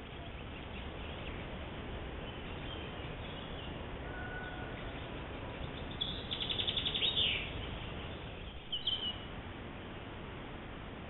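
Wild birds calling over a steady background hiss: a few faint high notes in the first seconds, then a rapid trill about six seconds in, the loudest sound, and a short chirp near nine seconds.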